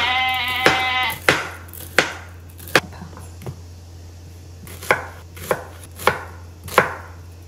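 Kitchen knife slicing through ham onto a cutting board, a sharp knock about every two-thirds of a second with a short pause midway. A brief high-pitched cry sounds over the first strokes.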